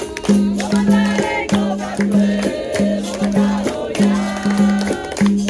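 Capoeira roda music: a berimbau repeating a short rhythmic note pattern with its caxixi rattle, over hand percussion and group singing.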